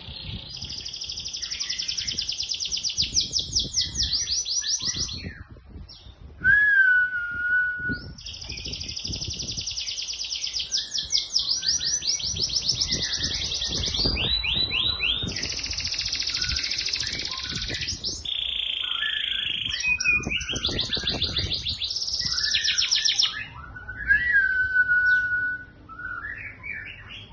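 Domestic canary singing long, fast rolling trills in phrase after phrase, with short breaks about 6 s and 18 s in. Twice, about 6 s in and again near the end, a lower whistled note slides down and holds; it is loud at its first appearance.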